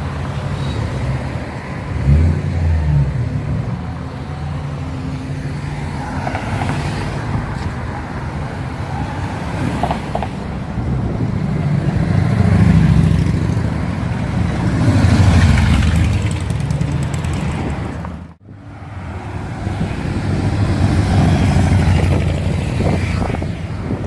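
Car engines and road noise, swelling and easing several times as vehicles accelerate and go by, with a brief break about eighteen seconds in.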